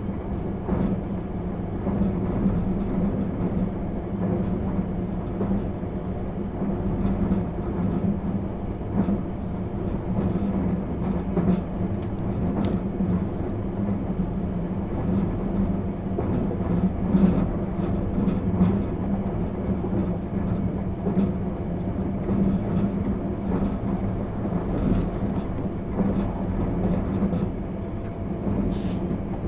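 Inside the passenger car of a JR 651 series electric multiple unit running along the line. The steady running noise has a hum, with scattered short clicks and knocks from the wheels on the rails.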